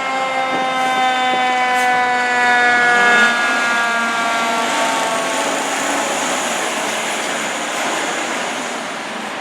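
Fire truck siren, one long tone sliding slowly down in pitch and fading out over about six seconds. Meanwhile the truck's engine and road noise swell to a loud rush around three seconds in and carry on after the siren has gone.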